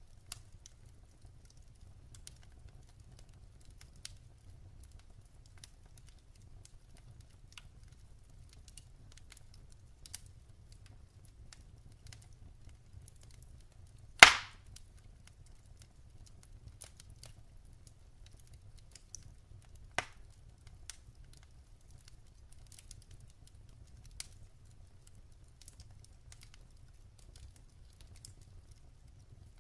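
Wood fire burning in a fireplace: scattered small crackles over a low steady rumble, with one loud sharp pop about halfway through and a smaller pop a few seconds later.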